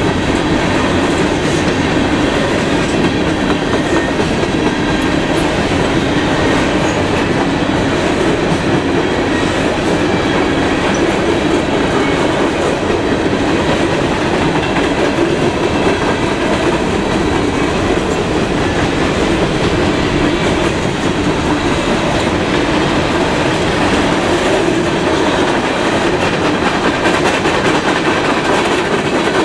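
Freight train cars rolling past close by: a steady, loud rumble and clatter of steel wheels on the rails that keeps on without a break.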